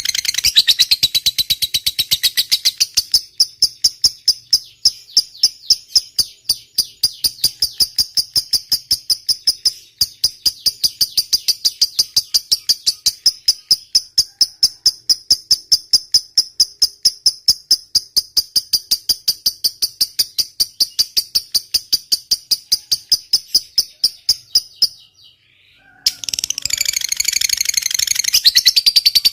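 A lovebird's long "ngekek" chatter: a fast, high, rattling run of evenly repeated notes, several a second, that goes on unbroken for about twenty seconds. It breaks off briefly near the end, then starts again as a denser chatter.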